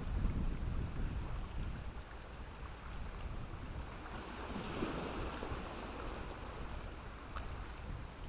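Sea waves washing onto the shore in a steady rush, swelling once at the start and again about five seconds in.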